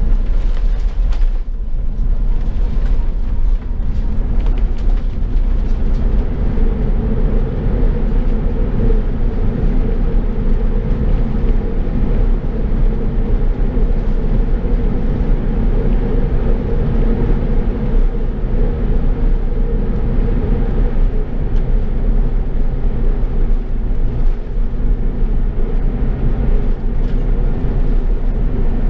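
Steady, loud rumble of an Airbus A380's engines and airframe heard inside the cabin, with the aircraft rolling on the ground after landing.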